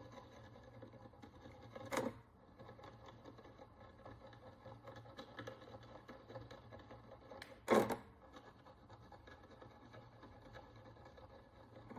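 A hand tool scraping and picking at the crust on an ancient bronze coin, a faint steady scratching. Two louder scrapes come about two seconds in and near eight seconds, the second the loudest.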